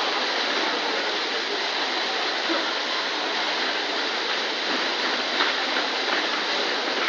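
Water gushing and splashing steadily, running to waste from an unattended outlet.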